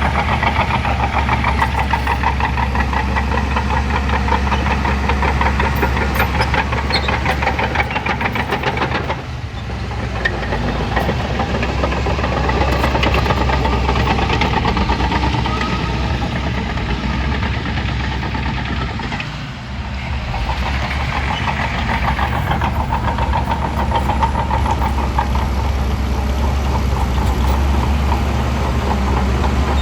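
Bulldozer's diesel engine running steadily with a rattling, pulsing note, easing off briefly twice, about a third and again about two-thirds of the way through, before picking up again.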